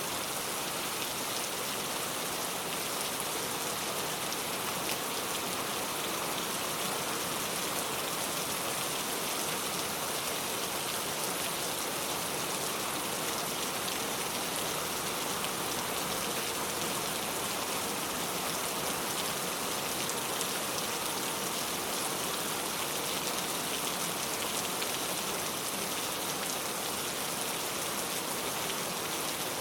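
Steady rain falling: an even, dense hiss of many drops, with faint individual drop ticks.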